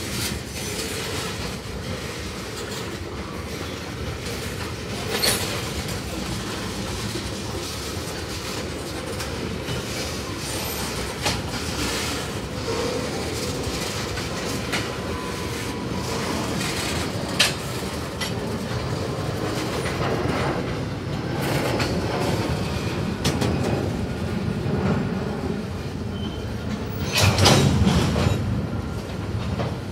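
Freight train of tank cars and gondolas rolling past: a steady rumble of steel wheels on rail, punctuated by sharp clacks from wheels going over rail joints, with a faint thin wheel squeal near the middle. A louder surge of rumbling noise comes about 27 seconds in.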